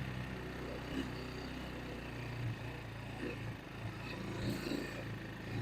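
Vitacci GTT250's 229cc air-cooled single-cylinder four-stroke engine running with a steady low note that swells slightly now and then.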